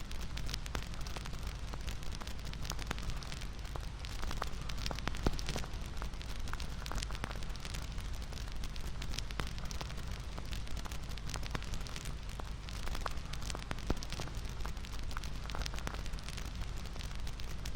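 Bonfire crackling: a steady hiss and low rumble of burning wood with frequent sharp irregular pops and snaps.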